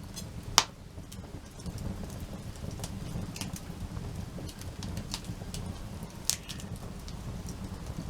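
Wood campfire crackling: scattered sharp ticks and pops, with two louder pops about half a second in and about six seconds in, over a low steady rumble.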